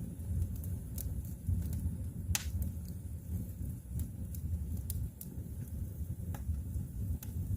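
Wood fire burning in a fireplace: a low steady rumble of flames with sharp, irregular crackles and pops, the loudest about two and a half seconds in.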